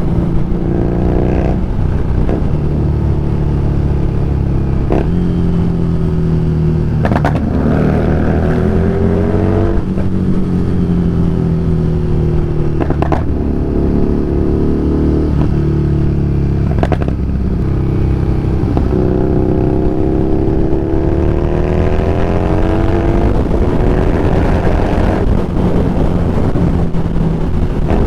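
Harley-Davidson Street Rod 750's V-twin engine running under way, its pitch rising and falling again and again with throttle and gear changes. A few short sharp knocks cut through it.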